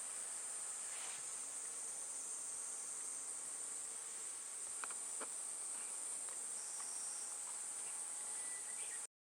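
Insects trilling in one steady, high-pitched, unbroken note, with a few faint clicks; the sound cuts off abruptly near the end.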